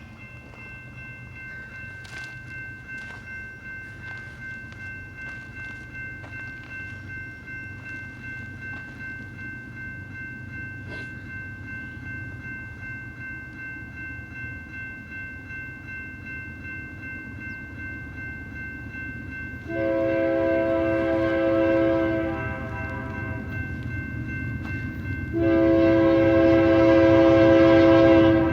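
Diesel locomotives of an approaching freight train rumble, growing louder. About 20 s in, the lead locomotive's horn sounds a long blast, and from about 25 s in a second long blast. A steady high ringing tone runs throughout.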